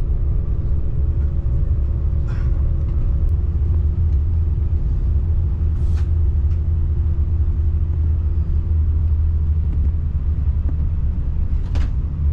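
Steady low rumble of a KTX high-speed train heard from inside the passenger carriage while it runs, with a faint steady hum over it. A few brief soft hisses break in, one about halfway through and one near the end.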